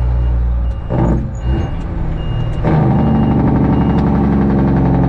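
Kenworth truck's Detroit Diesel engine running under way, dropping off about a second in and then pulling harder from about two and a half seconds in. Over it, a high electronic warning beep sounds about six times, a little under a second apart, like a reversing alarm, then stops.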